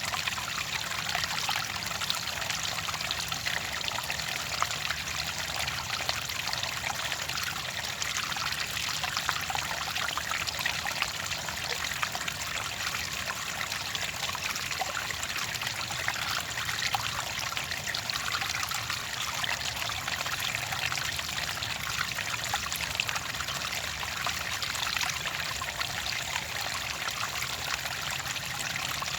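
Water trickling and splashing steadily, a light, bright burble like a small stream or pouring water.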